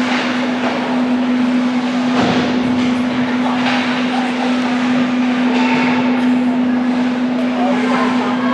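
Ice hockey play: skates scraping and carving on the ice, with a few sharp clacks of sticks or puck, over a steady hum.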